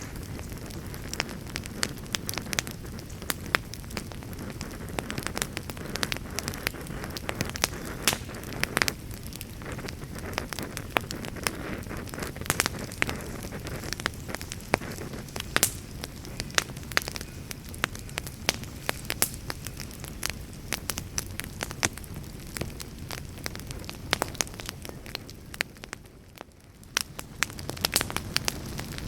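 Wood campfire burning, with frequent sharp crackles and pops over a steady low rush of flame. The sound dips briefly a few seconds before the end, then comes back.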